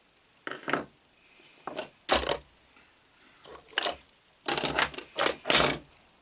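Clattering and scraping of hands working on parts and tools during bench grinder wiring: a run of short knocks and rustles, thicker and louder in the second half.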